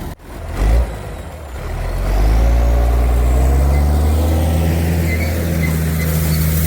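White 2-135 tractor's diesel engine working under load; about a second and a half in it picks up revs, then runs steady and loud. A short loud thump just under a second in.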